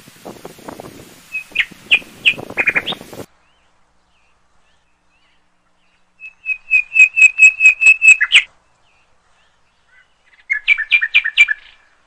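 Birds calling: a few chirps over a low rumble, then after a silence a rapid run of about a dozen high, piping notes. Near the end comes a shorter run of quick notes.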